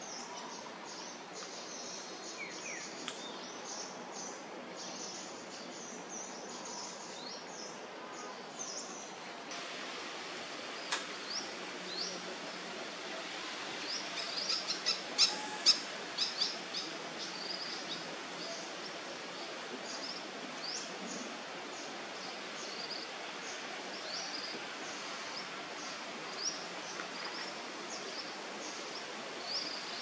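Small birds chirping over and over in short, high, rising notes, with a few sharp clicks in the middle.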